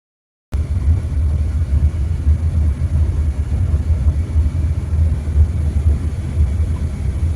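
Steady low rumble of a moving car heard from inside the cabin: engine and road noise. It cuts in abruptly about half a second in.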